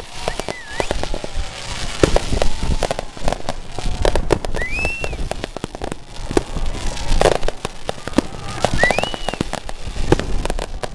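Fireworks going off in a dense, irregular run of sharp cracks and bangs with no pause.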